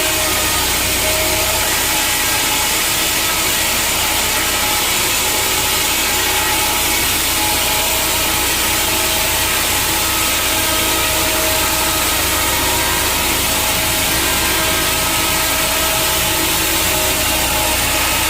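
Sawmill saw cutting steadily through a wood log, a continuous hiss of blade in timber over a low machinery hum.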